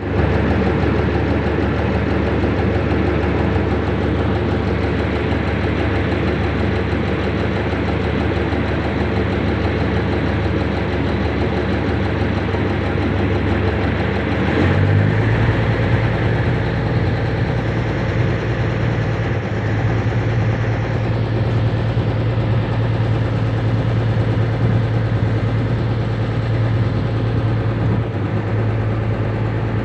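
A river ferry's engine running steadily, its low note stepping up and getting a little louder about halfway through.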